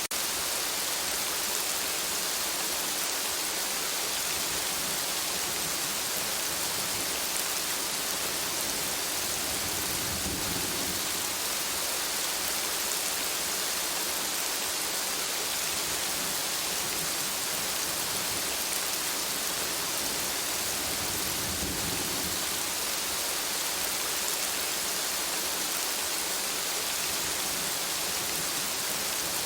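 Steady rain falling, an even dense hiss, with a low rumble swelling briefly twice.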